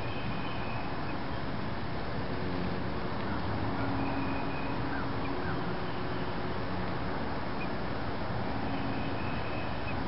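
Steady rushing background noise with a few faint, short bird calls and two brief rising chirps around the middle.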